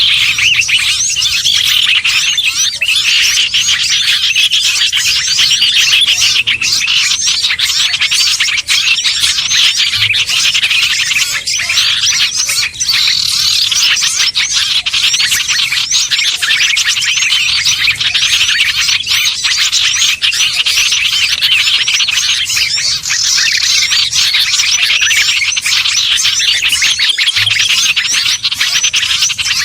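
A dense, loud chorus of many small songbirds chirping and twittering at once, without a break. It is a bird-lure recording of the kind played to draw small birds such as bulbuls, sunbirds and prinias.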